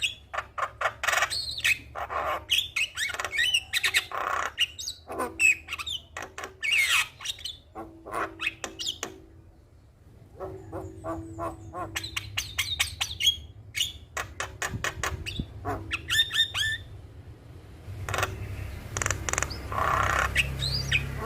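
Javan myna (jalak kebo) calling in fast runs of harsh chatter, clicks and squawks mixed with short rising and falling whistles, breaking off briefly about nine seconds in and again near the end.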